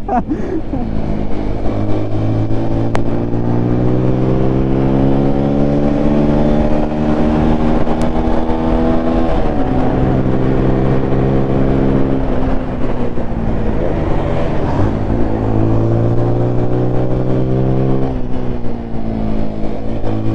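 A 200 cc single-cylinder sport motorcycle engine pulls hard under acceleration while riding, its pitch climbing slowly through a gear. The pitch drops suddenly about halfway through, dips and climbs again, then drops once more near the end, with road and wind noise underneath.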